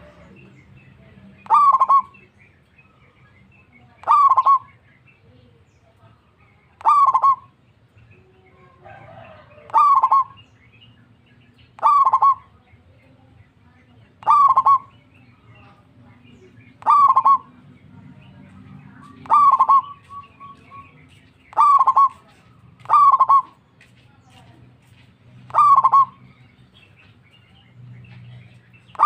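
Zebra dove (perkutut) cooing: a short call repeated about every two to three seconds, about eleven times.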